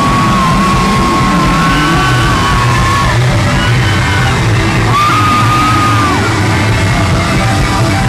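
Live pop concert music in a large hall, loud and steady, with the audience yelling and whooping over it and long high held notes that hold and then drop away twice.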